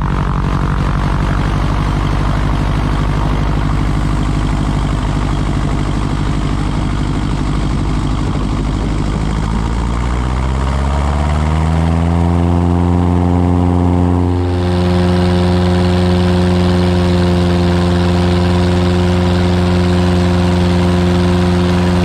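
Cessna 177RG's four-cylinder Lycoming engine and propeller running at low power, then about ten seconds in the pitch rises smoothly over a couple of seconds as power is brought up, and it holds steady at the higher setting.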